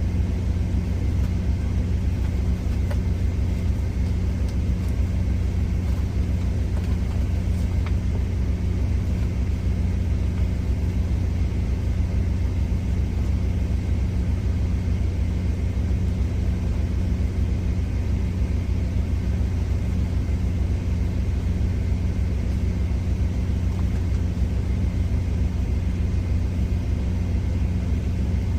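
Steady low drone of an idling truck's diesel engine, even and unchanging throughout.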